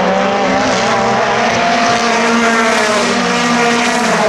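Several racing car engines running at high revs at once, their pitches shifting up and down as the cars go by.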